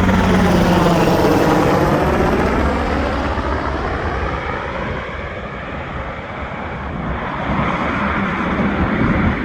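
Black Hawk helicopter flying low and passing over, its rotor and engine sound loud at first with the tone sweeping down and back up as it goes by, then fading. The sound swells again in the last few seconds.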